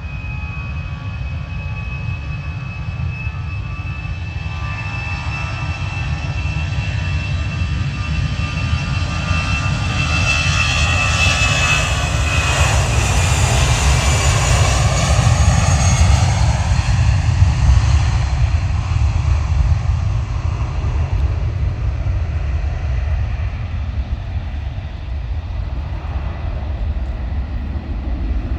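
Airbus A320's twin jet engines at take-off power as the airliner departs. A steady high whine over a low rumble builds to a peak about halfway through. The tone sweeps as the aircraft passes, then the sound fades.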